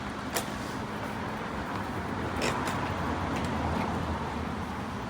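Road vehicle noise: a steady rumble that swells to a peak about three to four seconds in, with a sharp click about half a second in.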